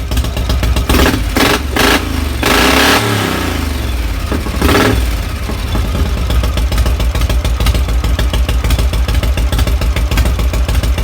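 1952 Harley-Davidson 74 cubic inch panhead V-twin running through Bates megaphone mufflers: blipped four times in the first five seconds, then settling to a steady, lumpy idle.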